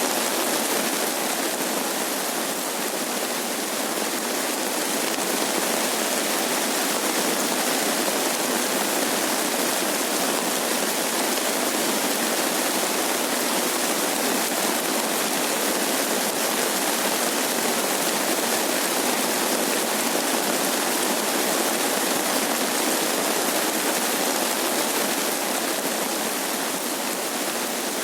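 Steady rain falling over rice paddies, a dense, even hiss with no separate drops or thunder.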